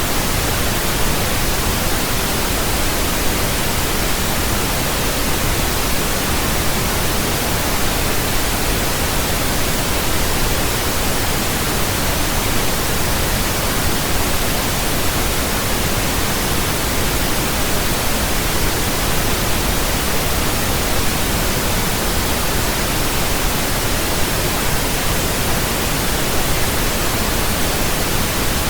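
Steady synthetic pink noise: an even, unchanging hiss spread across all pitches, with a low rumble beneath it.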